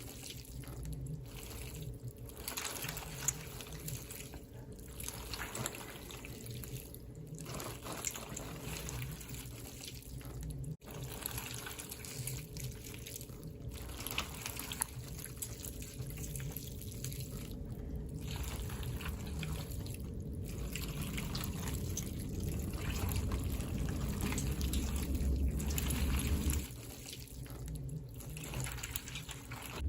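Water trickling and pouring in uneven spells with short pauses, over a low rumble that grows louder in the second half and cuts off suddenly a few seconds before the end.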